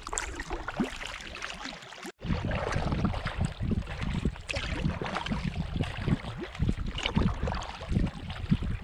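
Paddling a small canoe on a lake: water sloshing and splashing with the paddle strokes, with wind buffeting the microphone. The sound cuts out briefly about two seconds in.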